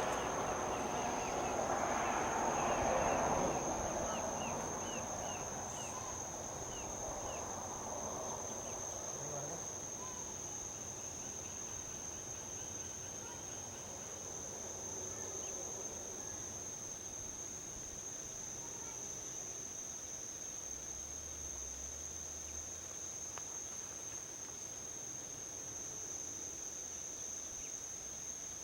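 Insects trilling in one steady, high-pitched drone. A passing vehicle's road noise swells in the first few seconds, then fades away about five seconds in.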